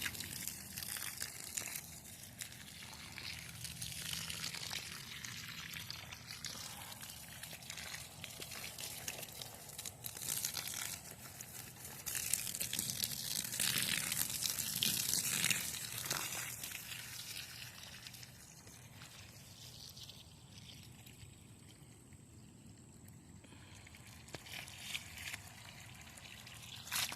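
Water pouring and trickling onto garden plants and soil, a steady splashing hiss that is heaviest about halfway through and then thins to a faint trickle.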